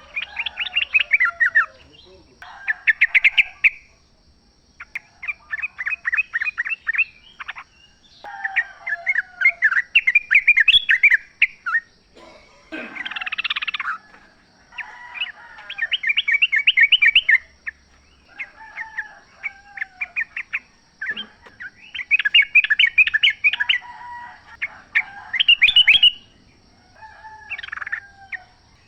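Yellow-vented bulbuls calling in the wild: one short burst of quick chattering notes after another, each phrase lasting a second or two with brief pauses between.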